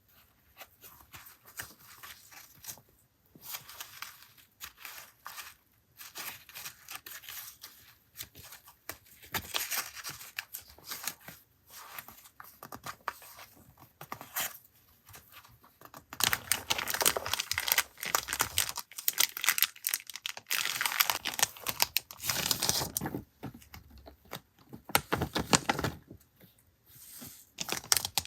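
Paper and packaging rustling and crinkling as stationery items are handled and unwrapped, in irregular bursts that grow louder and busier about halfway through.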